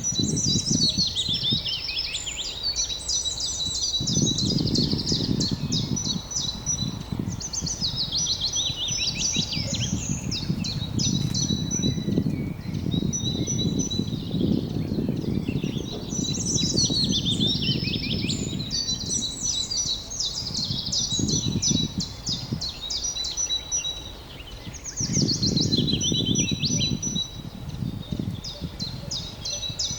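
Outdoor field ambience: a songbird sings repeated phrases of quick chirps and trills, a new phrase every few seconds, over a steady low rushing noise.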